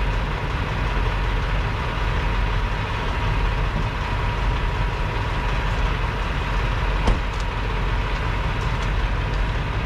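Semi truck engine running, a steady low rumble with a faint steady tone above it; a single sharp click about seven seconds in.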